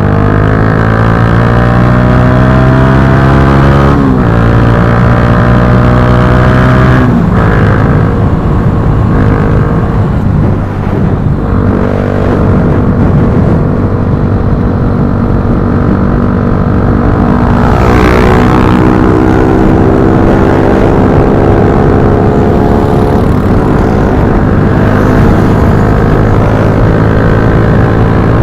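Bajaj Pulsar NS160's single-cylinder engine through an Akrapovic slip-on exhaust, pulling hard. The exhaust note climbs in pitch, drops sharply at each upshift, then climbs again, several times over.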